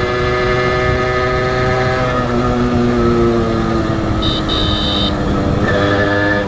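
Honda H100S single-cylinder two-stroke motorcycle engine running on the road; its note falls off about two seconds in, then picks up again near the end. A horn beeps twice, briefly, a little past the middle.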